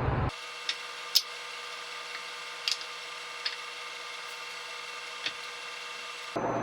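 A handful of light clicks and taps, about five, spread over several seconds, as parts or tools are handled, over a faint steady hum.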